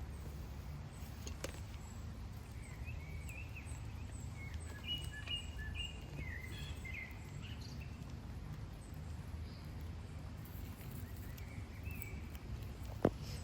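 Outdoor woodland ambience: a steady low rumble with small birds chirping, mostly in the first half. A single sharp click comes near the end.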